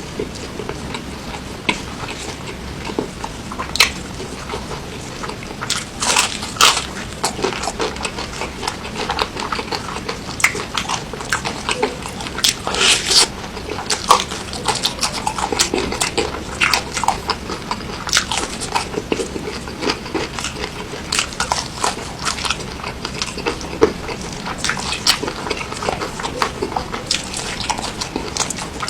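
A person chewing and biting food close to the microphone: irregular wet smacks and crunchy clicks throughout.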